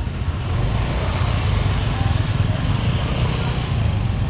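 A motorbike engine running steadily close by, with a low pulsing rumble, over the hubbub of a busy street market.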